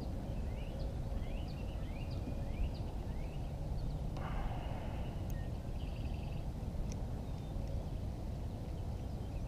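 A bird calling in a run of short rising chirps, about two a second, for the first few seconds, then a few short buzzy calls. Under it runs a steady low rumble of wind on the microphone.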